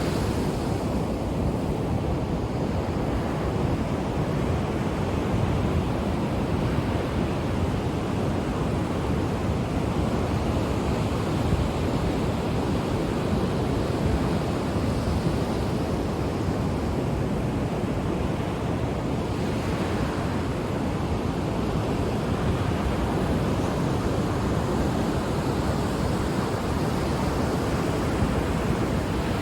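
Ocean waves breaking on a shore: a steady, dense rush of surf, with the wash brightening now and then as a wave comes in.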